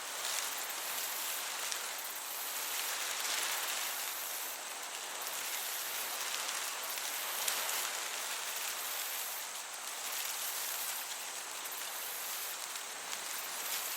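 Summer meadow ambience: crickets chirping high up over the steady hiss of a gentle breeze, with a few faint ticks.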